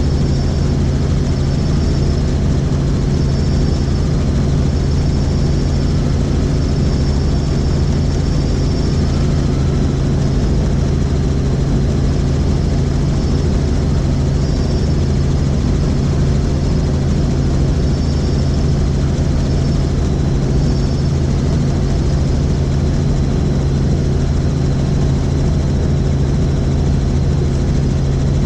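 Helicopter in flight, heard on board: steady rotor and engine drone, with a faint wavering high whine over it.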